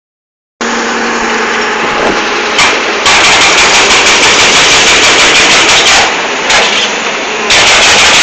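Hitachi UH07 excavator with a hydraulic breaker hammering rock in rapid, evenly spaced blows over the diesel engine's steady running. It starts about half a second in, hammering from about two and a half seconds, pausing briefly near six seconds while the engine runs on alone, then hammering again near the end.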